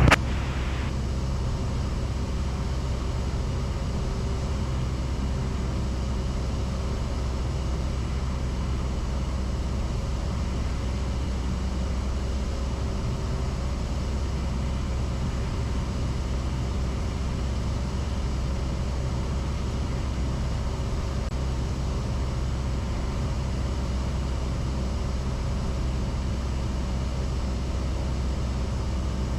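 Cessna 172S Skyhawk's four-cylinder Lycoming engine and propeller droning steadily in flight, heard from inside the cabin during the descent.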